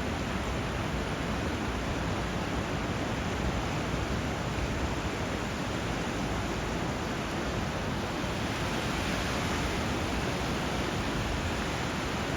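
Steady rushing water, an even, unbroken wash with no separate waves or bird calls standing out.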